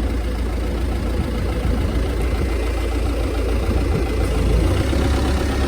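TCM FA35D forklift's diesel engine running steadily at low revs, getting a little louder about four and a half seconds in.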